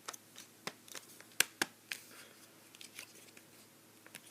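Hard plastic toy parts being handled and fitted together: a scattered series of sharp clicks and taps, with light rustling in between, as a playset staircase piece is put onto the castle.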